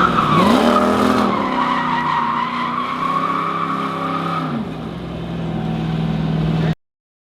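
Drift truck's engine revving, its pitch dipping and climbing, with the tyres squealing in a slide. The squeal fades about four and a half seconds in, and the engine carries on until the sound cuts off abruptly near the end.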